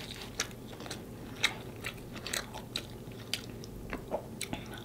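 Close-miked mouth sounds of someone chewing shellfish meat: a string of short, irregular wet smacks and clicks.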